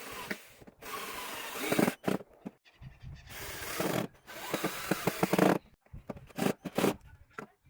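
A hand tool scraping wood in several rasping strokes, each about a second long with short pauses between them, and a few shorter, quicker strokes near the end.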